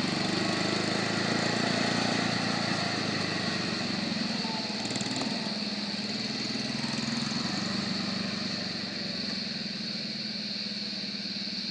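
Old truck engine running steadily, with a steady high whine above it; it gets a little quieter in the last few seconds.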